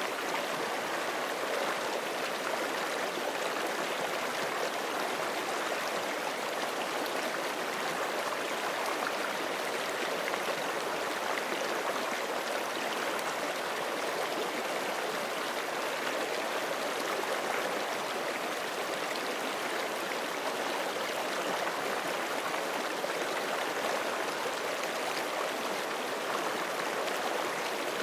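Forest creek running over rocks: a steady rush of flowing water with light gurgling, even throughout.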